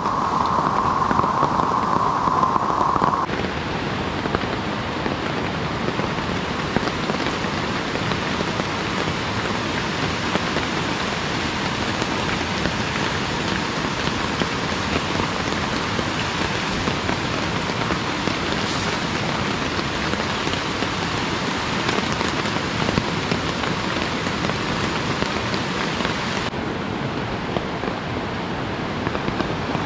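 Steady rain falling, heard from under a tarp: an even hiss with no single drops standing out. Its tone changes abruptly about three seconds in, and again near the end, where the highs drop away.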